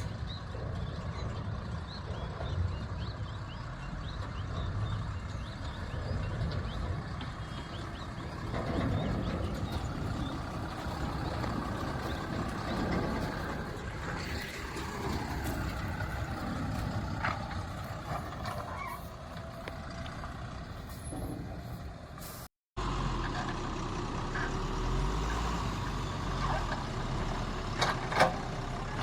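Heavy diesel machinery at work: the JCB 3DX backhoe loader's engine runs as it digs and loads soil, with the dump truck alongside. The sound cuts out completely for a moment about three-quarters of the way in. There are a couple of sharp knocks near the end.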